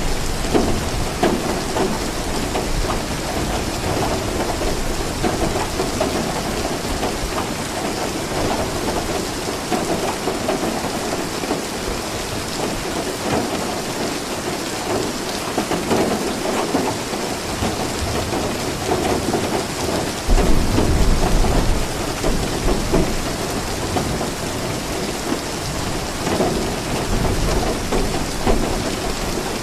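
Steady rain falling. A low rumble of thunder rises about two-thirds of the way through.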